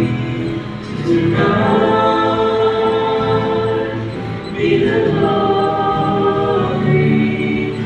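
A choir singing a sacred song, with long held notes and short pauses between phrases.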